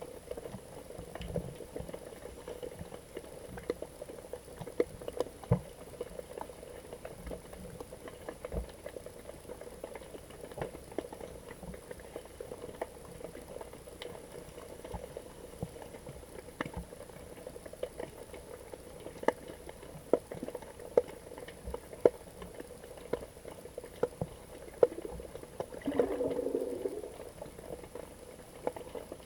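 Underwater ambience recorded by a GoPro in its housing: a steady muffled wash with many scattered sharp clicks and crackles. Near the end comes a brief low pitched burble lasting about a second.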